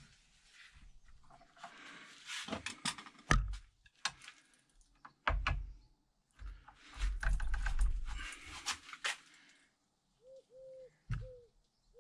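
Metal tools and brake parts being handled: irregular clicking, rattling and scraping with a few heavier knocks and thumps. Short cooing calls come in near the end.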